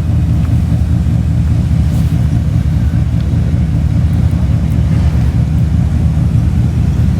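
Steady low rumble of a car engine running at low speed, with no revving or change in pitch.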